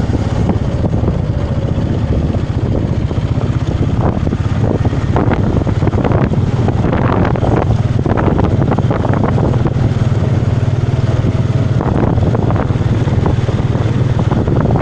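Small motorbike engine running steadily while riding, with wind buffeting the microphone.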